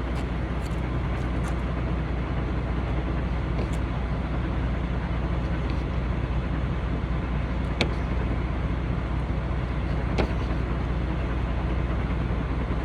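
Semi-truck diesel engine idling steadily, with two sharp knocks, about eight and ten seconds in.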